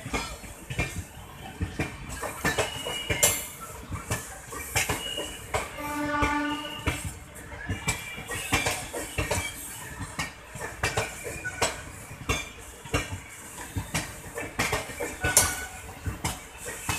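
Passenger coaches of an express train rolling past, the wheels clanking and clattering over rail joints and points in an irregular run of metallic knocks. A short pitched call sounds about six seconds in.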